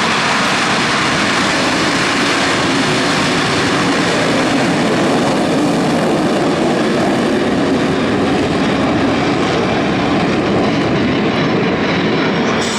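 Four F/A-18 Hornet fighter jets taking off together on afterburner: a loud, steady jet roar. The highest hiss fades near the end as the jets pull away.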